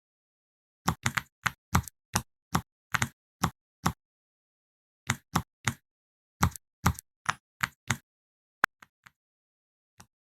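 A quick run of short pops, about twenty of them in uneven clusters, over dead silence, followed near the end by one sharp click and a few faint ticks.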